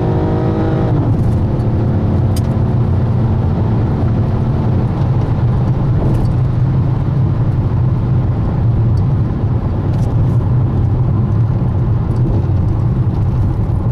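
Dodge Challenger SE's V6 through a MagnaFlow dual exhaust, heard from inside the cabin while accelerating hard: the engine note drops about a second in as it shifts up, holds a steady tone for a few seconds, then gives way to a steady low drone mixed with road and wind noise at high speed.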